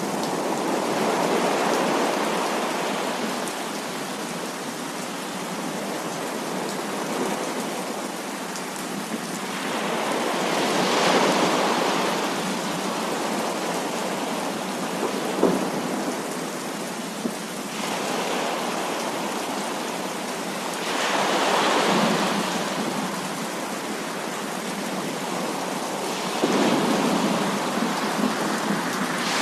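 Heavy rain falling steadily, with thunder rolling through it: the sound swells louder and then eases back about every six to ten seconds. A couple of sharp ticks, like drops hitting something hard, come about halfway through.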